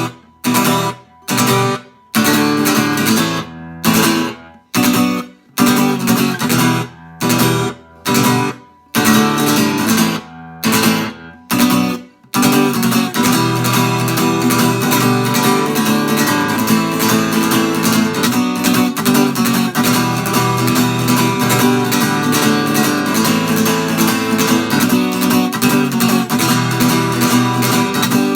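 Washburn EA20 acoustic-electric guitar strummed. For about the first twelve seconds the chords come in short stop-start bursts, cut off sharply with gaps between them, then the strumming turns continuous and fast.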